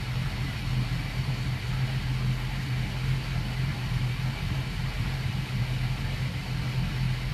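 A boat's inboard engines idling steadily while they warm up, a deep even drone with no change in speed.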